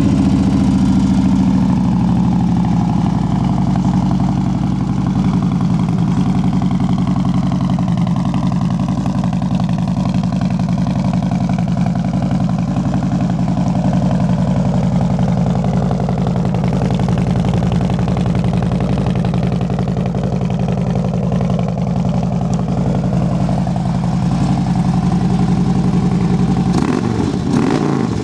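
Harley-Davidson 103 cubic-inch V-twin idling through an aftermarket Thunderheader two-into-one exhaust, just after starting. The idle settles a little lower in the first couple of seconds, then runs steadily, with a brief change in the engine note near the end.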